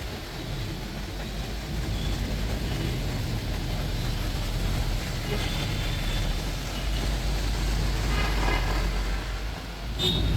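Steady rumble of a moving bus and the street traffic around it, with a brief sharp sound near the end.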